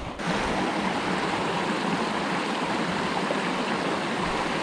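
Creek water flowing in a steady, even rush that comes in abruptly right at the start.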